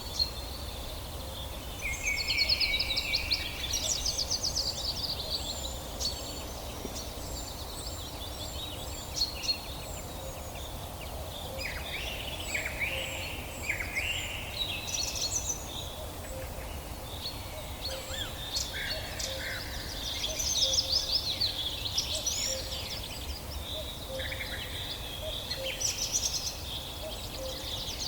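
Several songbirds singing and calling, with many quick chirps and trills layered over one another, over a low steady background rumble.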